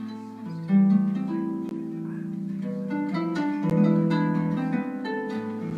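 Harp-led jazz ensemble starting a tune: plucked harp notes ringing over low sustained bass notes.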